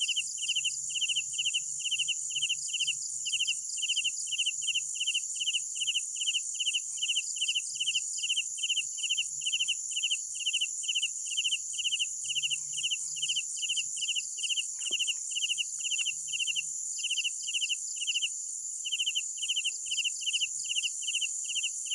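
Crickets chirping at night: one cricket chirps steadily about twice a second, each chirp a quick run of pulses, over a continuous high-pitched trill.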